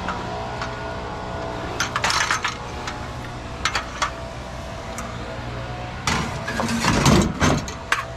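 Truck engine idling steadily, with a few sharp knocks about two and four seconds in and a louder cluster of knocks and rattles near the end.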